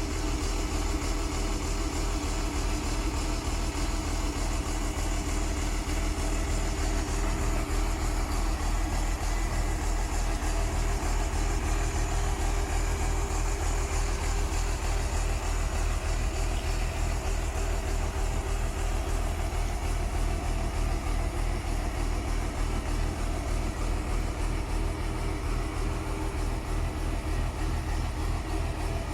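Cummins diesel engine of a crane truck running steadily at idle, an even low hum with no changes in speed.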